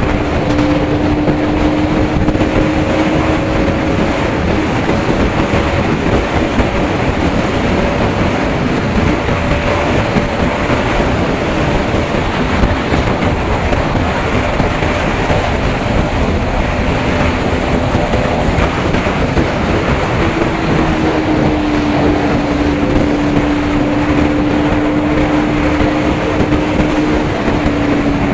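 Single-cylinder motorcycle engine at steady cruising speed under heavy wind and road rush. The engine's hum drops away in the middle and comes back about two-thirds of the way in, slightly higher and slowly falling.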